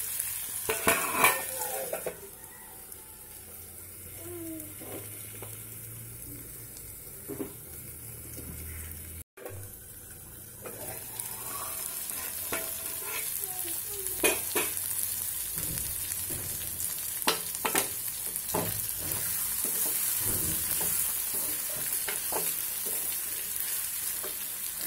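Chopped capsicum frying in an aluminium kadai covered with a steel plate, a steady sizzle that grows louder after about ten seconds. A few metal clinks sound near the start as the plate lid is handled, and later come scattered taps and scrapes of a spoon stirring in the pan.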